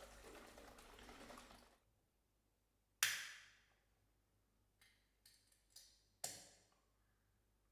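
Handling of a drink can: a steady rustling noise for the first two seconds, then a sharp crack with a short fading hiss about three seconds in, like a can's pull-tab being opened. A few light clicks follow, then another sharp crack that fades near the end.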